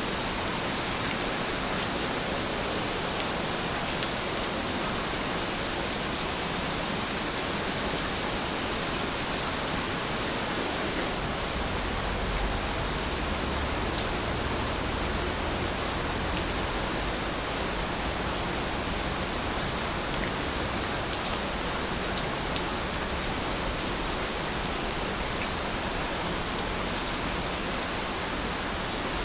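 Steady rain falling: a dense, even hiss with scattered faint drop ticks. About halfway through, a low rumble comes in underneath.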